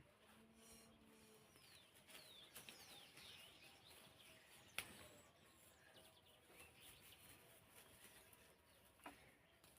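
Near silence outdoors: faint, scattered bird chirps, with one sharp click about halfway through and a lighter one near the end.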